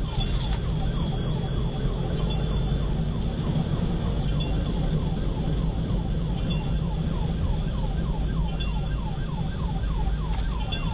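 Police car siren on its rapid yelp setting, repeating quick falling sweeps about three times a second, over the steady low rumble of the pursuing cruiser's engine and road noise.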